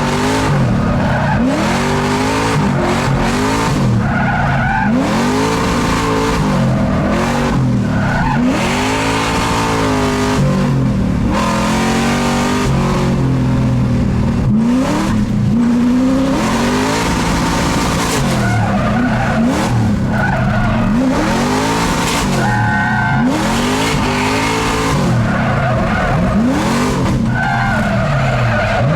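A drift car's engine revving up and falling back again and again, its pitch rising and dropping every couple of seconds, with tyres squealing and skidding as the car slides.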